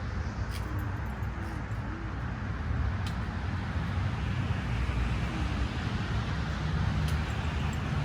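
Steady outdoor ambience: a continuous low rumble under an even hiss, with a few faint clicks.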